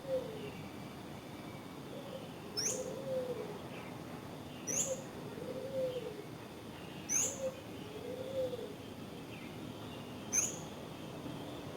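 Birds calling over a steady hiss of wind. A low two-part call, a short note then a longer arched one, repeats about four times. A sharp high whistle sweeps up four times, every two to three seconds.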